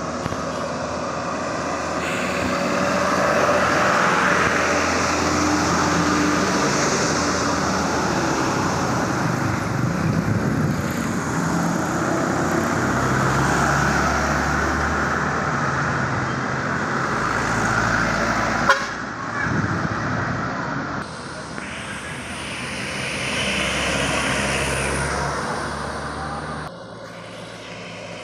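Heavy trucks running past on a road, their engine and tyre noise swelling and fading, with horn toots. There is a sharp knock about nineteen seconds in, and the traffic noise drops off near the end.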